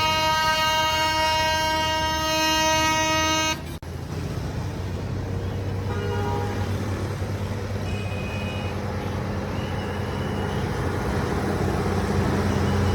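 A truck horn holds one steady note for about three and a half seconds and cuts off abruptly. A heavy diesel engine then keeps running steadily.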